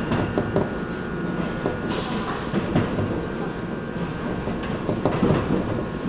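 Electric commuter train running along the railway, its wheels clacking over the rail joints with a steady high whine.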